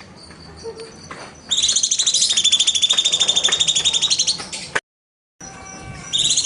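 Cucak cungkok singing: after some faint high notes, a loud, fast, high-pitched trill of about three seconds cuts off abruptly, then a brief dead silence and more high calls near the end.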